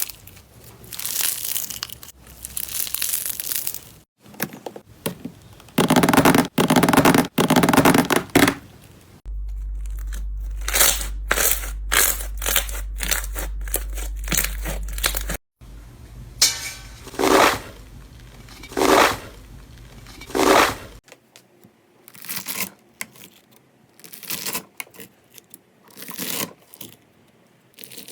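Slime being worked by hand in a run of short clips: stretched, pressed and poked, giving bursts of crackling, crinkling and tearing sounds, with abrupt cuts between clips.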